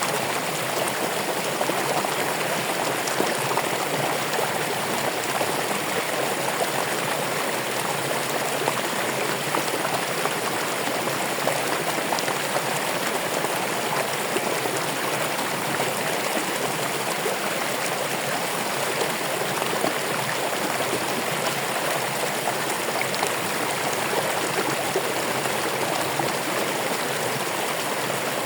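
Running water flowing steadily, an even rush with no pauses or changes.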